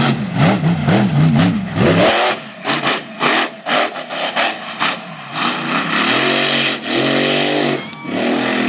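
Mega mud truck's engine revving hard, its pitch swinging quickly up and down several times. About two seconds in, the sound changes to a rough, surging run with gusts of noise, and ends on a couple of steadier engine pulls.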